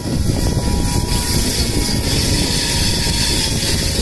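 Pallavan Express passenger train running along the track, heard from an open coach door: a steady rumble of wheels on rails mixed with rushing wind.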